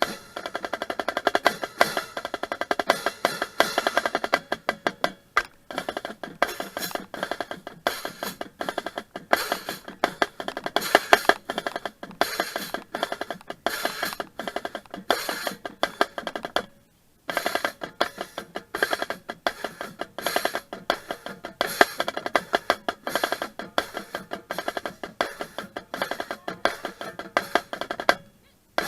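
High school marching drumline playing: fast, dense snare strokes and rolls with drums and rim clicks, breaking off briefly about 17 seconds in before starting again.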